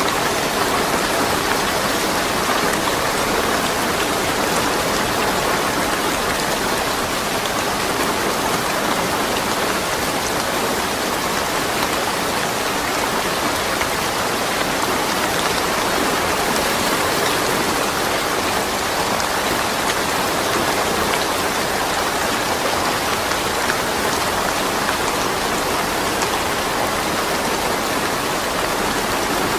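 Steady rain falling, a dense, even patter of raindrops with no thunder.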